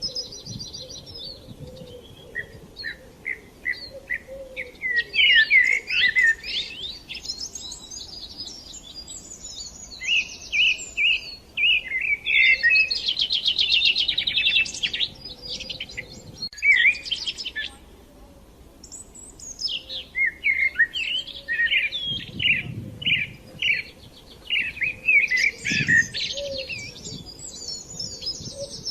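Songbirds singing: phrases of quick chirps and trills, a few seconds each, broken by short pauses.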